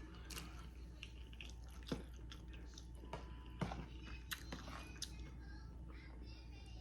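Close-miked mouth sounds of eating: chewing and biting food, with a few sharp crunchy bites about 2, 3.6 and 4.3 seconds in.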